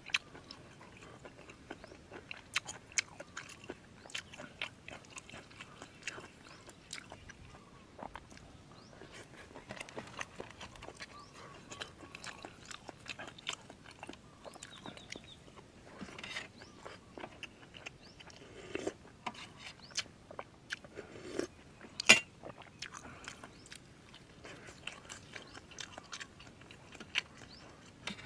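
A person chewing and crunching seafood, with many small irregular clicks and one sharp click about three-quarters of the way through.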